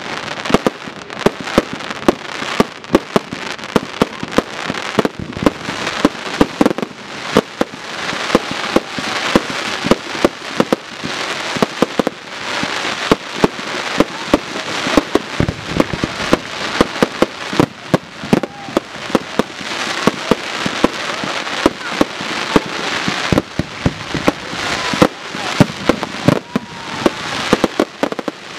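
Professional display fireworks firing in rapid succession: several sharp bangs a second from shells and cakes bursting, over a continuous crackle from glittering stars.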